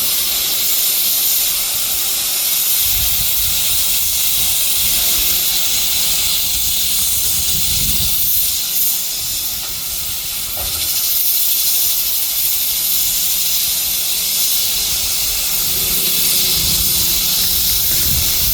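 Steam locomotive giving off a steady hiss of steam, with low rumbles now and then.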